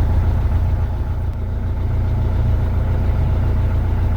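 A narrowboat's diesel engine running steadily at low revs while the boat is manoeuvred, easing off slightly about a second in and then picking back up.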